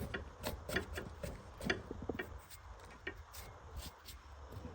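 Irregular light clicks and taps, a few a second, from hand tools being worked on an old motorbike's stuck bolt.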